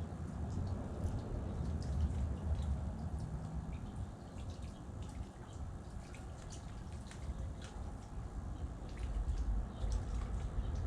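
Outdoor ambience: a steady low rumble with sparse, short, high ticks scattered through it. The rumble grows louder near the end.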